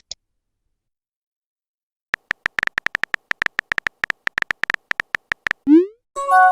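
Phone texting sound effects: after a silent pause, a quick run of keyboard typing clicks, then a short rising swoosh as the message is sent, followed by a chime-like chord of steady tones near the end.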